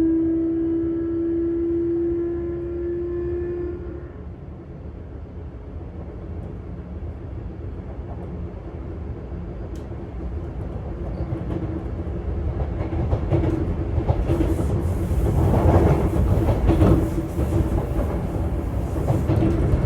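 Sotetsu 8000 series electric train running, heard from inside a motor car: a steady, slightly rising motor whine cuts off about four seconds in as the train drops to coasting. The wheel and track rumble then grows louder in the second half, with rail-joint clatter and knocks.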